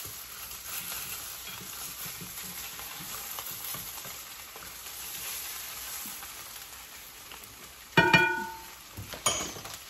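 Chicken sisig sizzling in a frying pan as it is stirred, a steady hiss. About eight seconds in comes a sharp ringing clink of dishware, and a smaller clink a second later.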